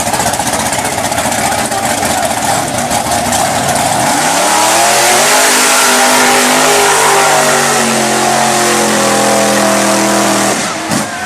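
Off-road truck engine running hard under full throttle. About four seconds in it revs up and holds at high revs, then drops off shortly before the end.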